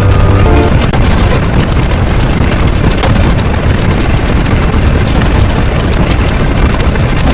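Loud, continuous rumbling noise with scattered crackles, heaviest in the low end; a chord of music dies away about half a second in.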